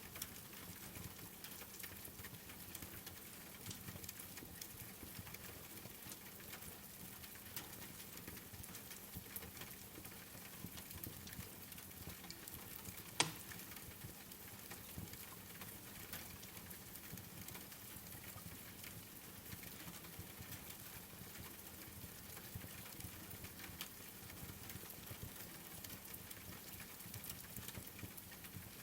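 Steady rain pattering, mixed with the soft crackle of a wood fire, many small ticks over a faint hiss. One sharper snap about halfway through.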